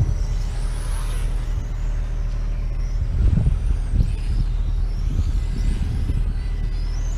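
Several racing motorcycles circulating on the track, their engines revving up and down in overlapping high-pitched whines as they accelerate and brake, over a steady low rumble.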